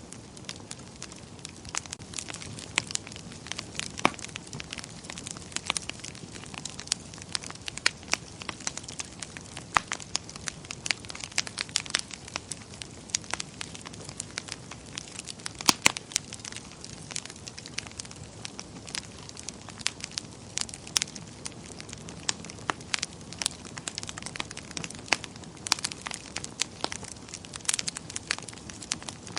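Wood fire burning in a fireplace, crackling and popping irregularly over a soft steady hiss, with a sharp double pop about halfway through.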